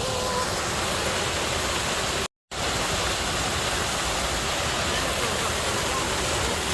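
Running water, a steady even rush, that cuts out completely for a moment about two seconds in.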